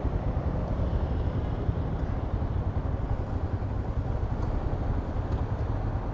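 Royal Enfield Himalayan's 411 cc single-cylinder engine running at a steady cruise: a low, even drone with road noise and no change in pitch.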